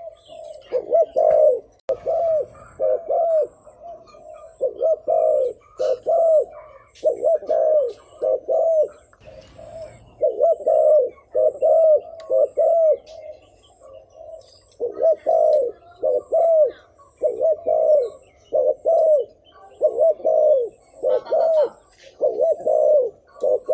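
Spotted dove cooing: short arched coos repeated in quick clusters of two or three, with a brief pause about fourteen seconds in.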